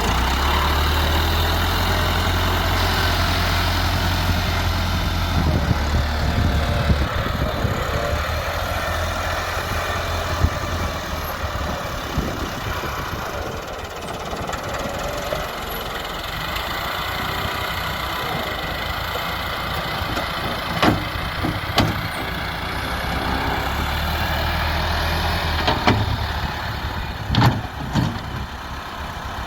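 Diesel engines of a JCB loader and a tractor running steadily, with a few sharp knocks near the end.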